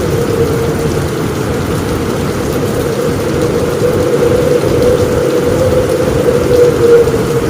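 Heavy rain pouring steadily on a roof, dense and unbroken, over a deep continuous rumble of thunder. It swells slightly near the end.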